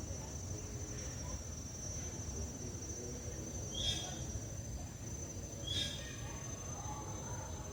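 Steady high-pitched insect trill, with two short, sharp bird calls about two seconds apart near the middle.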